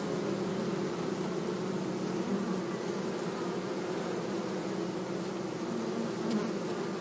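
A mass of honey bees buzzing, a steady, unbroken hum.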